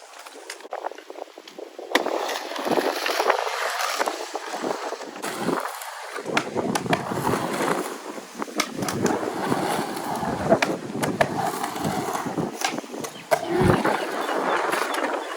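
Wheels rolling over skatepark concrete, with sharp knocks and clacks from landings and tricks. The rolling gets louder about two seconds in.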